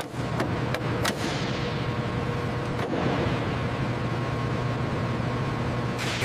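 Steady low mechanical hum with a background hiss, broken by a few sharp clicks or knocks in the first second and once about three seconds in.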